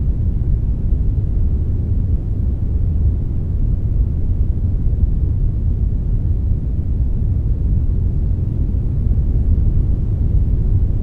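Generated brown noise: a steady, even hiss weighted heavily to the low end, deep and rumbling, with no changes or events.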